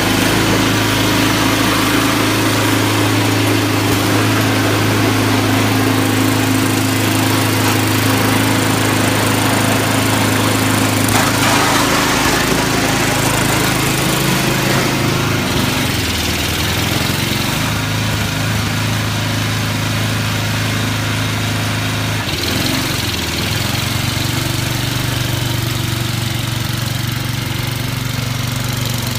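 A small engine running steadily. Its pitch wavers and drops for several seconds in the middle, then settles again.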